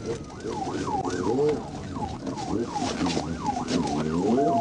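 Police car siren in yelp mode, fast rising-and-falling whoops about two to three a second, over the patrol car's engine. A brief steady tone sounds near the end.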